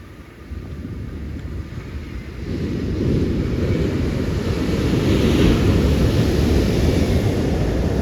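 Ocean surf: a wave breaking and rushing in, the wash swelling about two and a half seconds in and staying loud, with wind rumbling on the microphone.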